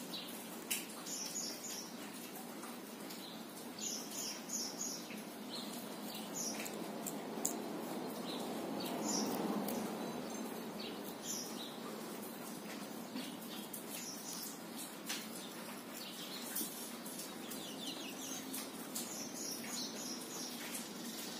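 Small birds chirping on and off, short high calls scattered throughout, over a steady background hiss. Around the middle a low rushing noise swells and fades.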